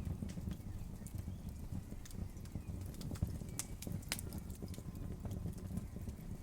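Campfire crackling: irregular sharp pops and snaps of burning wood over a low, steady rumble of the fire.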